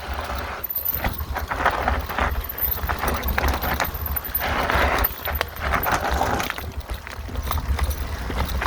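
Mountain bike riding a rough dirt singletrack: tyres rolling and crunching over the ground, with the bike clattering and clicking over bumps. A steady low rumble from wind buffeting the microphone runs underneath.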